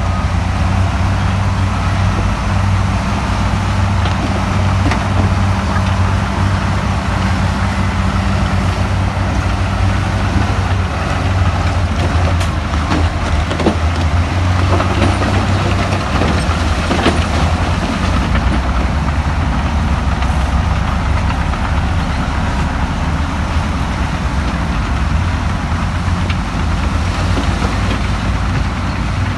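Heavy diesel earthmoving machinery running steadily at a low, even engine note, with scattered clanks and knocks in the middle.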